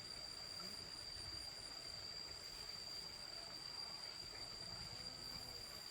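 Steady high-pitched insect chorus, crickets or cicadas, with a faint low rumble beneath.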